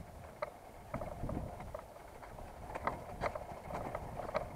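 Irregular squeaks and sharp knocks from a vehicle while it is being ridden, over a low rumble. The rider takes the squeak for something in the motor rather than a wheel.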